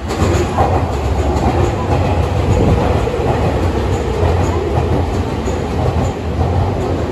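Nankai Main Line electric commuter train pulling into the station, its cars rolling past the platform with a steady, loud rumble of wheels on rail.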